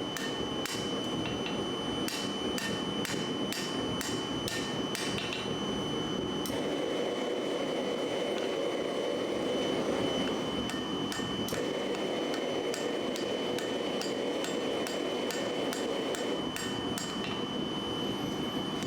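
Hammer striking steel on an anvil in runs of quick blows with short pauses between them. A steady rushing noise runs underneath.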